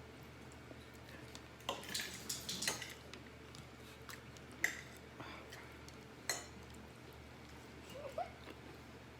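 Spoon and utensils clinking against dishes and bowls while eating: a handful of sharp, separate clinks, with a short rising squeak near the end.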